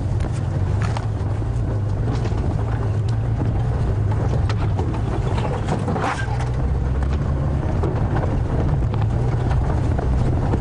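Safari vehicle's engine running as it drives slowly off-road, a steady low hum, with a few short knocks and rattles scattered through.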